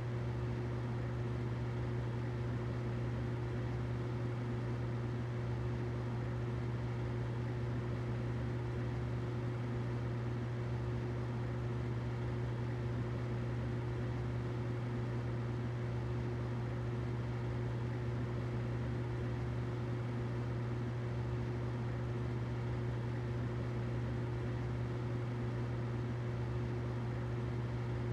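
Humidifier running: a steady low hum with a faint even hiss over it, unchanging throughout.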